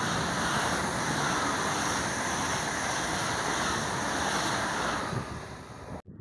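ICE high-speed electric train passing through at speed: a loud, steady rush of wheels on rail and air, fading over about the last second as the tail of the train goes by, then cut off abruptly.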